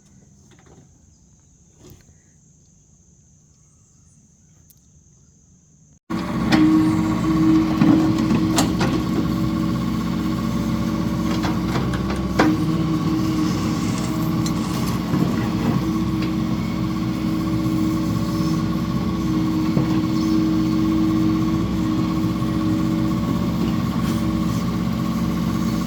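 Faint steady insect chirring for about six seconds, then a sudden cut to an excavator's diesel engine running steadily, with scattered clanks and scrapes from the digging.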